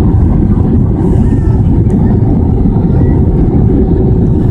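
Steady, loud rumble of engine and airflow noise inside an Airbus A320 cabin.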